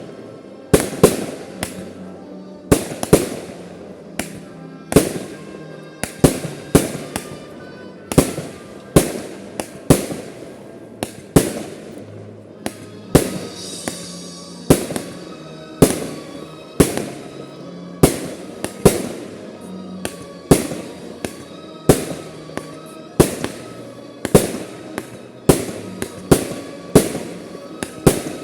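Fireworks shells bursting in quick succession, sharp bangs about one to two a second, each with a short echoing tail. A hissing crackle rises about thirteen seconds in.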